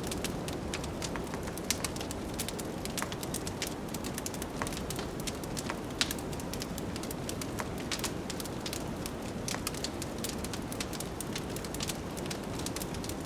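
Wood fire crackling in a fireplace, with dense irregular pops and one sharper snap about six seconds in, over a steady low rush of blizzard wind.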